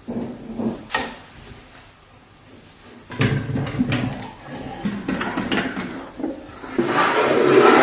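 Wooden knocks and scraping from wooden cabinet parts being handled and moved. A steadier rubbing noise builds near the end.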